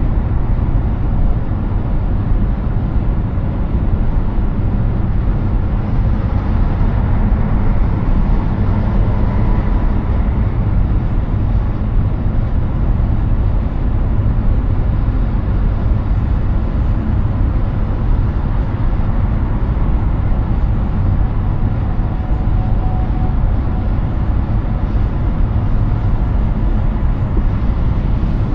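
Steady highway road noise from a Hyundai Ioniq 6 at speed: tyre roar and wind rush with a deep, even rumble and no engine note, since the car is electric.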